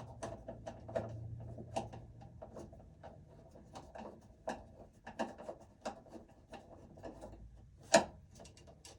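Irregular small clicks and taps of a screwdriver and wiring being worked in an electrical breaker panel, as a connection is tightened down, with one louder knock about eight seconds in.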